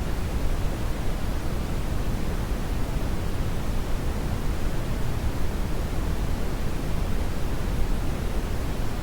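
Steady, unchanging brown noise: a deep, even rushing hiss weighted toward the low end.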